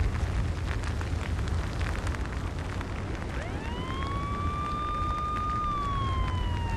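Deep steady rumble of a volcanic eruption with crackling, from the pyroclastic flow. About halfway through a siren winds up, holds its pitch for a couple of seconds, then slowly falls.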